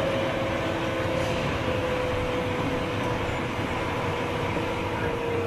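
Interior running sound of a Tobu 9000 series chopper-controlled train: a steady rumble with a whine that falls slowly in pitch as the train slows. This car's motor sound is unusual for the type, which the uploader likens to a Tokyo Metro 8000 series.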